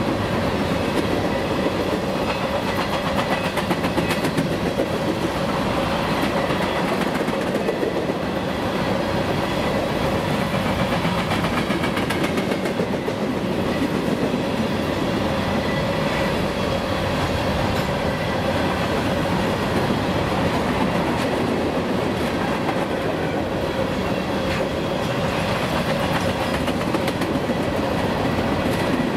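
Empty covered hopper cars of a returning grain train rolling past: steady rumble of wheels on rail with a clickety-clack of wheels over joints and a steady ringing tone underneath.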